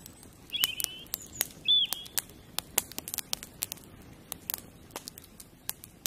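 Two short bird calls about a second apart, early on, over scattered sharp clicks that keep going throughout.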